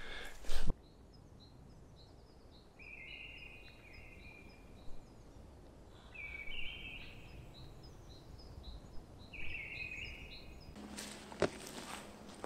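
Woodland songbirds: a bird repeats a short trilled phrase three times, about three seconds apart, over a run of thin high chirps. There is a brief knock just after the start, and near the end rustling and footsteps on the forest floor begin.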